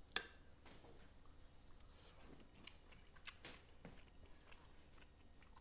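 Faint chewing: a person eating a mouthful of food, with soft scattered crunching and mouth clicks, after one short sharp click just after the start.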